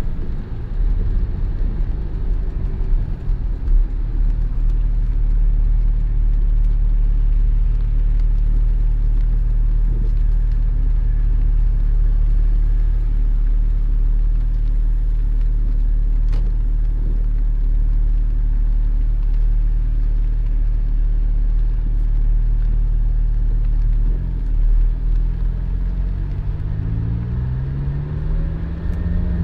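Porsche 718 Spyder's flat-six engine running at low, steady revs in slow traffic. Near the end the revs climb a few times as the car accelerates.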